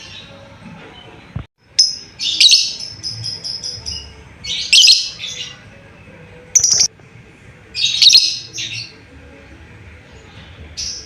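Lovebird giving loud, shrill chirping calls in short bursts about every two seconds, one run ending in a quick pulsed chatter: a lovebird's call to its flock mates.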